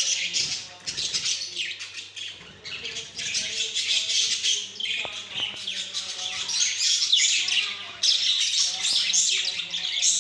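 Several pet budgerigars chattering and warbling without pause, a dense run of quick chirps and squawks. A steady low hum runs underneath.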